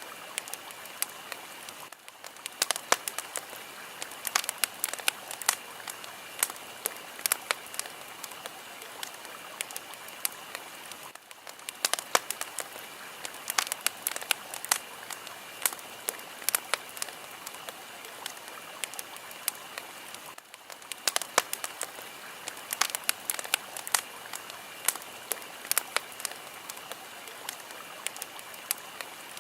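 Fire crackling and popping: a steady hiss with many sharp snaps scattered through it, and a brief dip in the hiss about every nine seconds.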